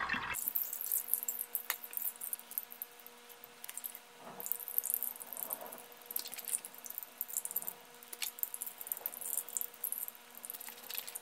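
Wet paper pulp being pressed and squeezed by hand, with water dripping and trickling out through a mesh splatter guard into a glass bowl of water below.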